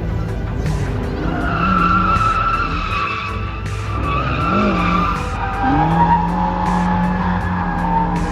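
Drift cars sliding on track: long, held tire squeals over engine noise, with an engine holding a steady note from about halfway through.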